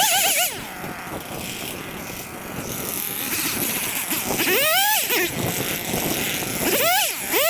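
Small two-stroke engine, most likely a chainsaw, revved in short throttle bursts. The pitch sweeps sharply up and drops back just after the start, about halfway through and again near the end, running lower in between.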